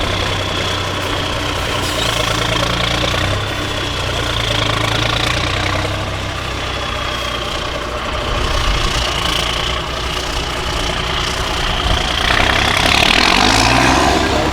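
Diesel engine of a 6x6 MAN trial truck running at low revs, with a steady high whine above it. The engine revs up briefly near the end.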